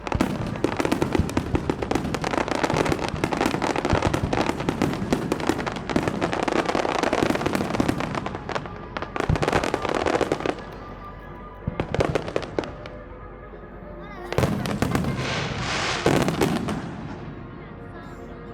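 Aerial fireworks display: a dense barrage of shells bursting and crackling for about ten seconds, then a few separate bangs, and a second short flurry about fifteen seconds in before it dies down.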